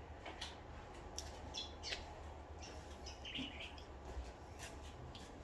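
Birds chirping faintly in short scattered calls, over a low steady hum, with a few light clicks.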